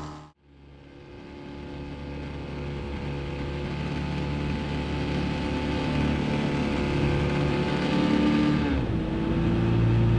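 A 9.8 hp Mercury outboard motor runs steadily under way. The sound drops out almost to silence just after the start and fades back in over a few seconds. About nine seconds in, the engine note shifts to a slightly higher pitch.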